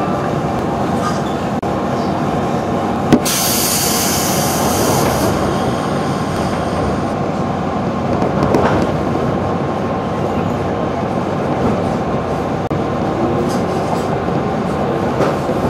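Inside a JR 211 series electric train pulling away from a station and gathering speed, with a steady rumble of wheels and running gear. About three seconds in there is a sharp click followed by a couple of seconds of air hiss, and near the end a faint rising motor hum.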